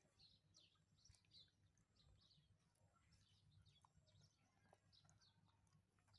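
Near silence, with faint, short, high-pitched bird chirps repeating every second or so in the background.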